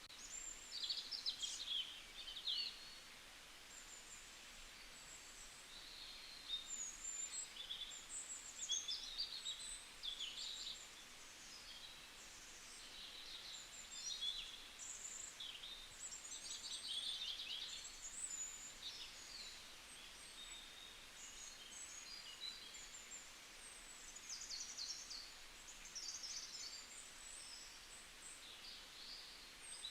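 Several small birds chirping and singing over one another, a continuous chorus of high, quick notes and short trills.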